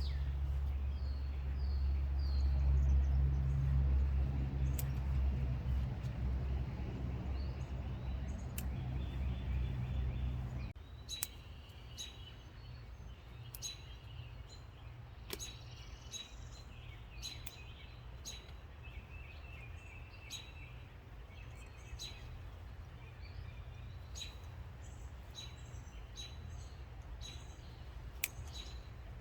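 Outdoor garden sound: a heavy low rumble for about the first ten seconds cuts off abruptly. Wild birds then chirp repeatedly, with scattered sharp clicks.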